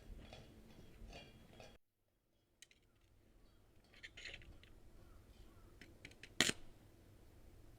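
Light metallic clinks and taps from metal parts or tools being handled, with one sharp metal knock about six and a half seconds in. A brief complete dropout about two seconds in.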